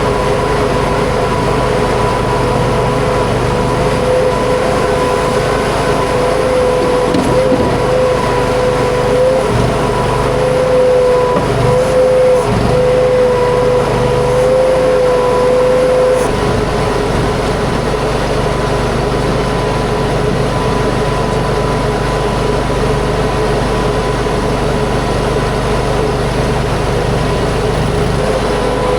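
Huayee LHY480 mini skid steer running under work, its engine steady with a high whine over it that wavers, drops out about halfway through and returns near the end.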